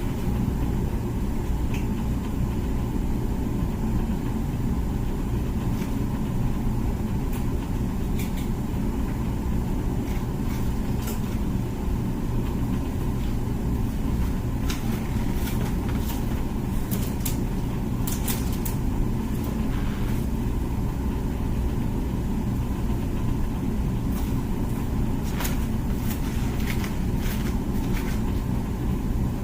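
Comfee dishwasher running mid-cycle: a steady low hum from its pump and motor, with scattered light ticks and clicks.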